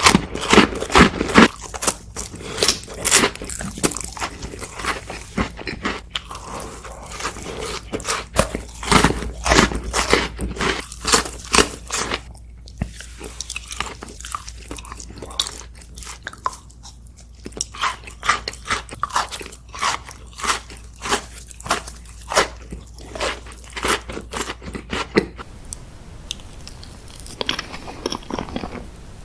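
Close-miked eating: crisp bites and crunchy chewing of dessert, many quick crackles in a row. About 25 seconds in, the sound changes to a quieter backdrop with a few softer bites.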